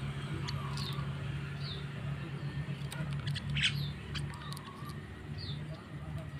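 Javan myna (jalak kebo) calling: short, high falling chirps about once a second, with one louder, harsher squawk a little past halfway.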